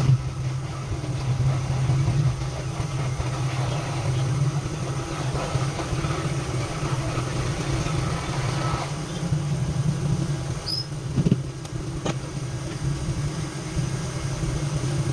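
A steady low mechanical hum with a noisy haze over it, broken by two sharp clicks about eleven and twelve seconds in.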